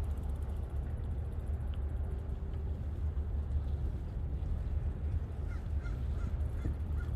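Steady low rumble from the ride, with a crow cawing about five times in quick succession near the end.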